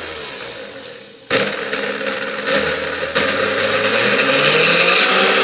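Hamilton Beach Model D mixer's electric motor running, slowing and dropping in pitch, then switched back on with a click about a second in. It comes straight back up to speed and runs steadily, its pitch shifting near the end.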